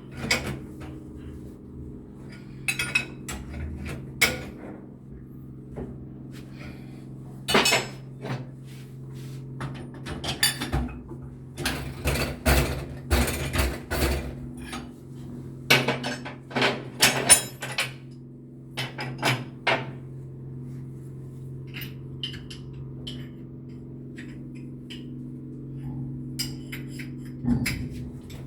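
Sharp metallic clinks and knocks, in irregular clusters, from work on a ship engine's fuel injector during an injector test. A steady low machinery hum runs underneath.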